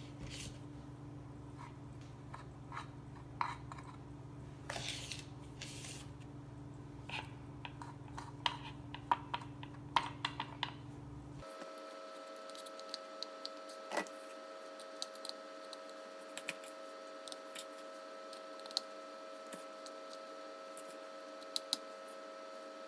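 Light, irregular clicks and taps of crumbly cookie dough being scooped and pressed into a mini muffin pan, over a steady background hum that changes about halfway through.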